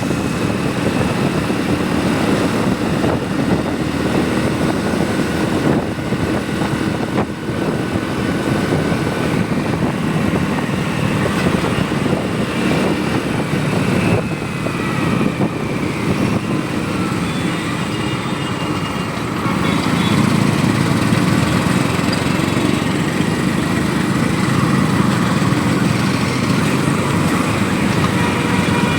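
Motorcycle engine running steadily at riding speed with road and wind noise, growing a little louder about two-thirds of the way through.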